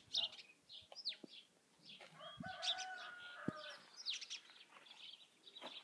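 Birds chirping in many short, quick, falling notes, with one longer drawn-out call of steady pitch about two seconds in.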